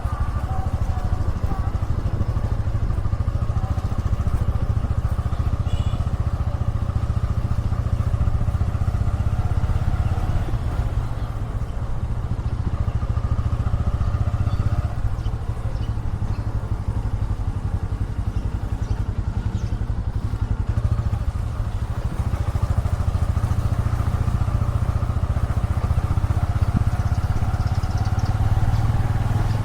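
Motorcycle engine running steadily under way, with a heavy low rumble.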